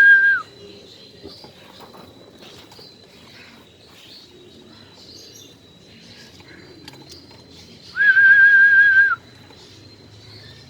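A high, steady whistled note, loud and held at one pitch. One ends just after the start, and another lasting about a second comes about eight seconds in. Faint bird chirps and small ticks can be heard between them.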